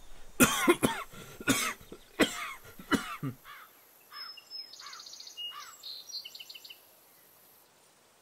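A man coughing in a run of about six coughs over some three seconds. About four seconds in, birds chirp for a couple of seconds.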